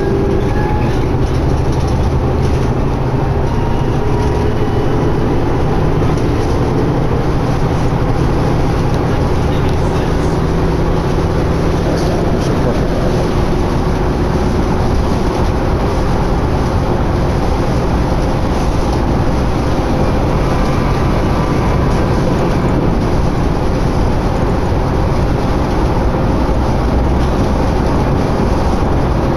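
Steady drone of a 2011 New Flyer D60LFR articulated diesel bus heard from inside the cabin while under way: engine and drivetrain hum mixed with road and tyre noise.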